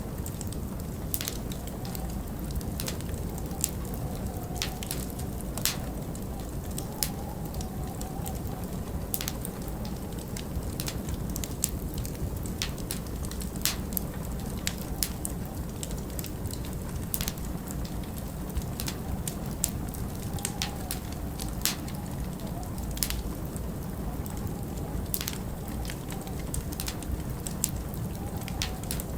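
Wood fire burning in a fireplace, crackling with irregular sharp pops and snaps, over a steady low rumble of winter wind that rises into a faint whistle a couple of times.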